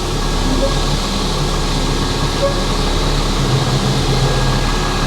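International dump truck's engine running steadily as the truck is driven, with a low even hum under a noisy rumble.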